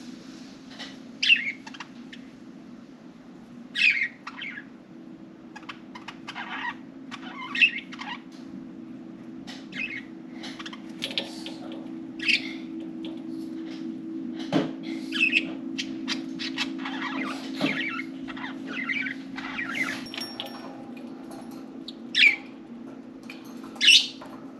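Budgerigars chirping and chattering in many short calls, with a few much louder chirps, over a steady low hum. Two sharp clicks come near the middle.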